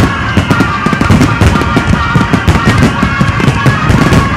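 Fireworks finale barrage: shells bursting in rapid, overlapping bangs, many a second, over the show's accompanying music.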